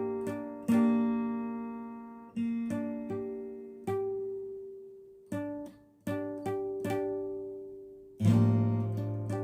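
Guitar played on a single chord, strummed and plucked by a beginner. Each stroke rings and fades before the next, about one a second, with a louder full strum near the end.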